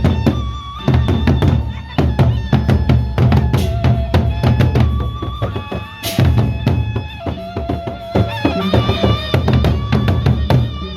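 Loud band music for a nyongkolan wedding procession: dense, heavy drumming with a melody line played over it.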